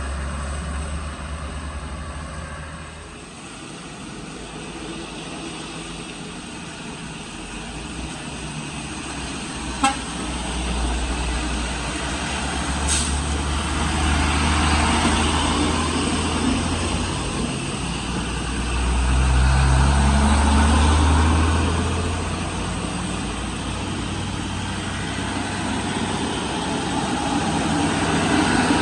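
Heavy road vehicles such as trucks labouring through a bend, their engines swelling and fading as they pass, with a horn tooting. A single sharp click sounds about ten seconds in.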